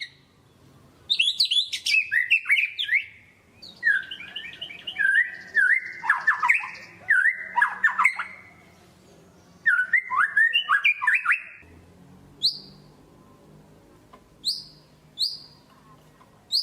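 White-rumped shama singing: three spells of rapid, varied whistled and trilled phrases, then, from about twelve seconds in, a run of single sharp falling notes about a second apart.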